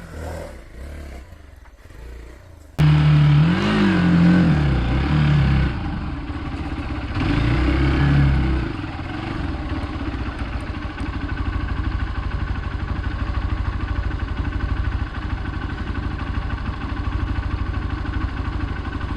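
Hero Xpulse 200 motorcycle's single-cylinder engine. After a quieter start it cuts in loudly about three seconds in and is revved up and down twice, then settles into steady low-rev running with an even pulse.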